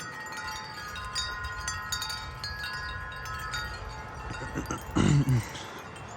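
Wind chimes ringing in the wind, many overlapping struck notes that ring on. About five seconds in, a short, loud, pitched vocal sound cuts across them.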